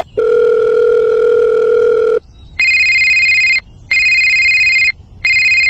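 Electronic telephone-like tones: a steady low beep for about two seconds, then a higher two-tone ring that repeats about once every 1.3 seconds, twice and starting a third time.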